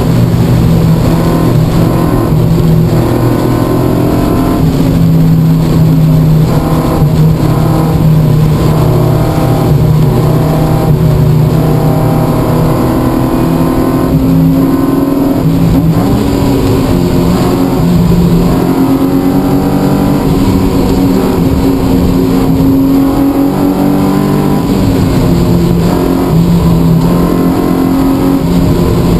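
Lotus Elise S2 135's Rover K-series four-cylinder engine heard from inside the cabin, working hard on track. The revs climb steadily, then drop back with lifts and gear changes a few times.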